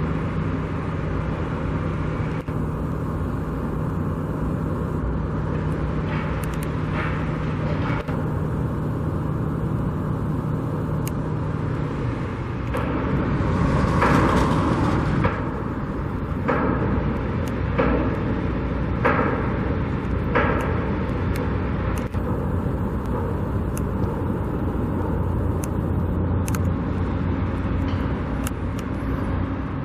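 Steady road traffic going by, with one vehicle passing louder about halfway through and a few sharp knocks shortly after.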